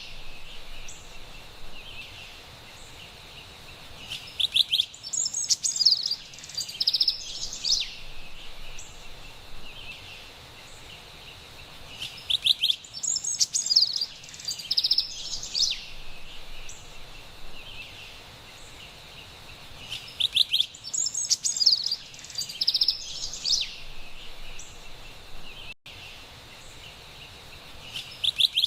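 Carolina wren singing: loud bouts of quickly repeated ringing phrases, each about three seconds long, coming roughly every eight seconds over a faint steady background hiss.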